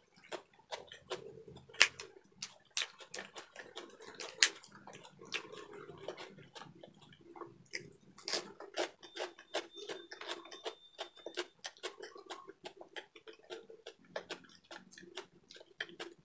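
A person chewing a bite of crisp fresh lettuce wrapped around adobo, heard as a run of short crunches and wet mouth clicks, with two louder crunches about two and four and a half seconds in.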